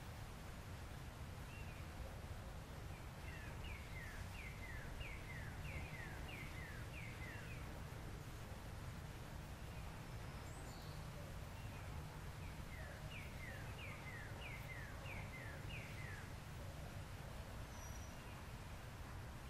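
A songbird singing two runs of repeated down-slurred whistled notes, about two notes a second, over a steady low background rumble.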